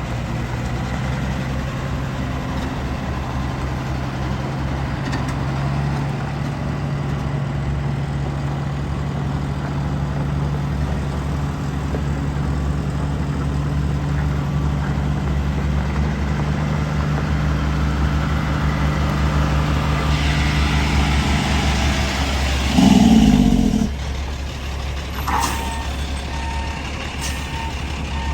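The diesel engine of a 2001 Peterbilt 378 truck idling steadily. Near the end there is a brief louder burst, then a click and a faint beeping in short, evenly spaced pulses.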